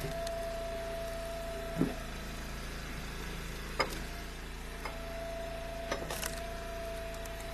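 Gas-engine hydraulic wood splitter running steadily, with a thin whine that cuts off a couple of seconds in and comes back about two-thirds of the way through, and a few sharp knocks in between.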